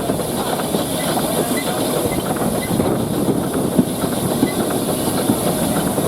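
Steam railway train running: a steady rattle of many small clicks and clanks, with a continuous high hiss.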